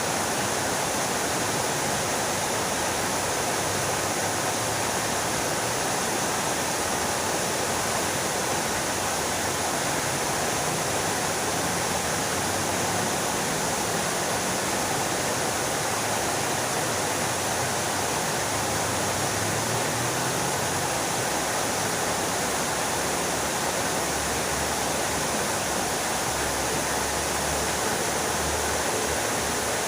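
Fountain water splashing steadily into its basin.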